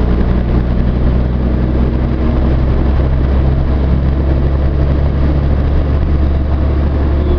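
Truck's engine droning steadily while driving, heard from inside the cab, with road noise over it.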